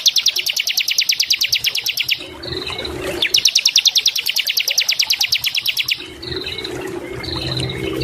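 Bar-winged prinia (ciblek) singing. It gives fast trills of rapidly repeated high notes, about a dozen a second and two to three seconds long: one ending about two seconds in, another from about three to six seconds in. Short single notes fall between the trills, over a low steady hum.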